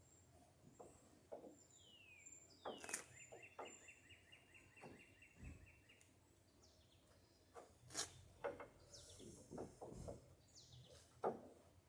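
Faint birdsong: a falling chirp, then a fast trill of repeated notes lasting about three seconds, and later scattered higher chirps. A few faint sharp knocks sound about three, eight and eleven seconds in.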